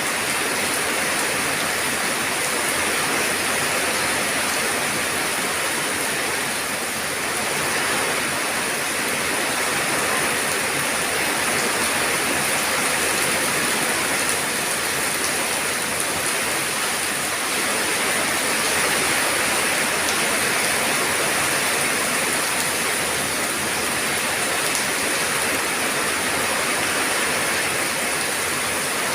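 Steady heavy rain falling, a dense even hiss with faint scattered drop ticks.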